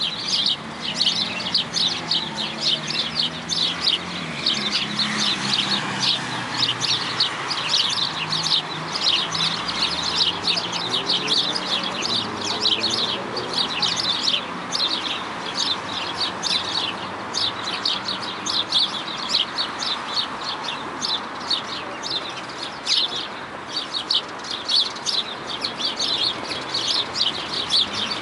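A flock of small birds chirping densely and without a break, many short calls overlapping. A fainter, lower pitched sound runs underneath through roughly the first half.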